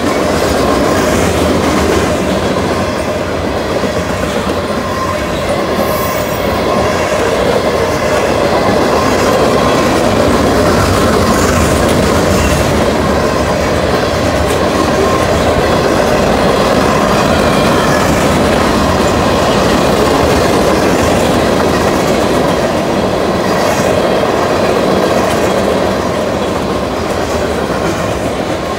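Freight cars of a BNSF manifest train rolling past close by: steady noise of steel wheels running on the rails, with a faint steady whine from the wheels and a few brief high squeals.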